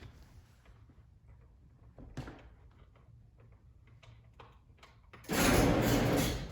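A door opening. There are faint ticks and steps at first, then a loud, noisy scrape about five seconds in that lasts about a second.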